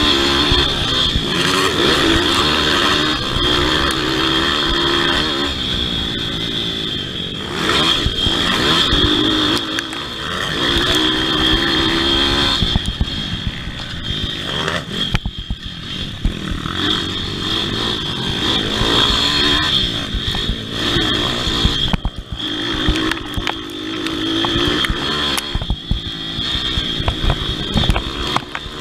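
Pit bike engines revving hard and easing off again and again as the bikes race round a motocross track, the pitch rising and falling every few seconds.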